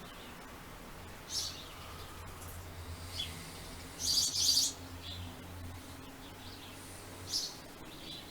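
Backyard songbirds chirping: short, high calls scattered through, the loudest a quick run of chirps about four seconds in.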